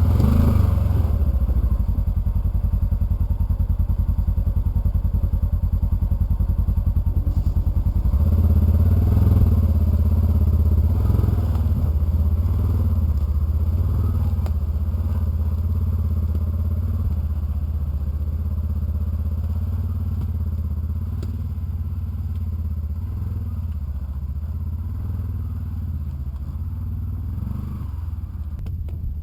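Polaris Ranger side-by-side engine running steadily with a low, even beat, the pitch shifting about eight seconds in and the sound slowly growing quieter through the second half.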